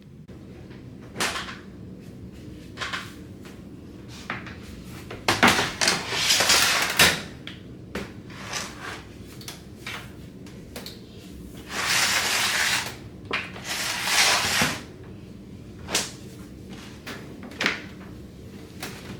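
Household handling noises: a series of scattered knocks and clatters, with a few longer rustling, hissing bursts of about a second each, from things being moved, opened and shut.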